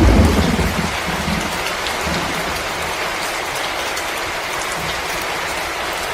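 Fireplace crackling: a steady hiss scattered with small pops and snaps, with a deep rumble at the start that dies away over about a second and a half.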